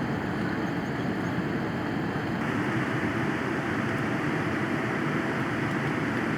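Steady rushing cabin noise of a Boeing 787-9 airliner in flight or on its takeoff run, its GE GEnx engines and the airflow heard from inside the passenger cabin.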